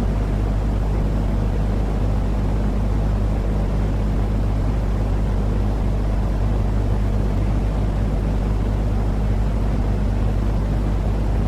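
A steady, unchanging white-noise sleep sound: a deep, rumbling hiss weighted toward the low end, with a constant low hum beneath it, like a running engine or cabin noise.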